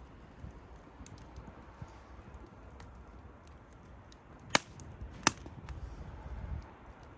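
Wood bonfire crackling with faint scattered ticks, and two loud sharp pops about three-quarters of a second apart a little past the middle.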